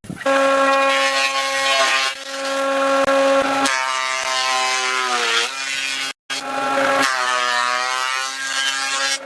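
Electric power tool motor running at a steady pitch, which sags and recovers about halfway through as the tool bites into wood. The sound cuts off abruptly about six seconds in, then resumes.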